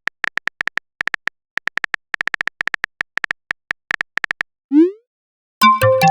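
Phone messenger sound effects: rapid keyboard tap clicks, several a second, as a message is typed, then a short rising bloop as it is sent, and near the end a louder notification chime of a few ringing notes.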